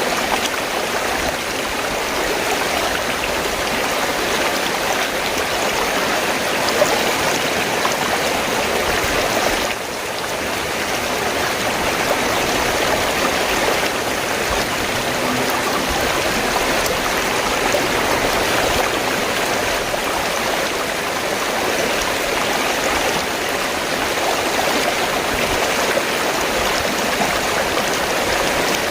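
River water flowing and rushing steadily, with a brief dip in level about ten seconds in.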